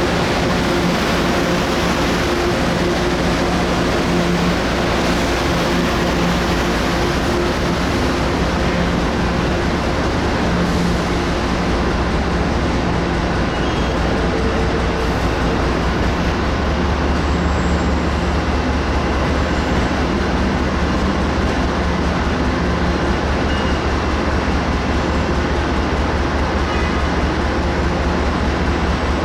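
MBTA commuter rail train departing: the diesel locomotive's engine running steadily under load, with the continuous rumble of the rolling train. A deeper rumble grows stronger about halfway through.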